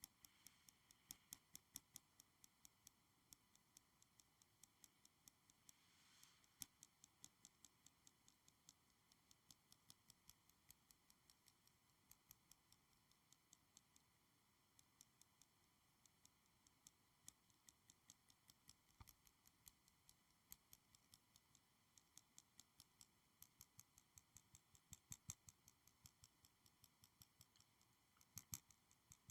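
Fingernails tapping lightly and quickly on a small school supply, about three or four faint clicks a second.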